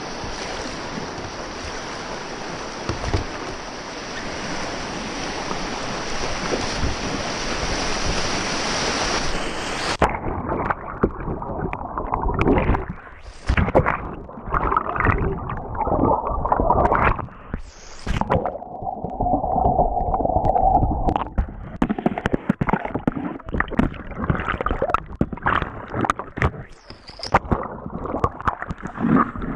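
River water rushing around a kayak, steady at first. About ten seconds in the sound turns suddenly muffled and choppy, with gurgling and splashing.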